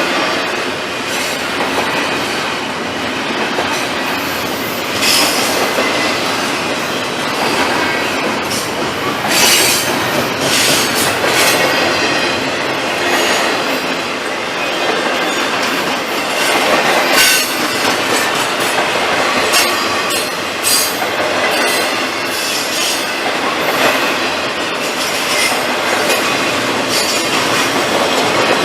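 Long freight train rolling slowly past, its cars clattering over the rail joints with irregular high wheel squeals and clicks.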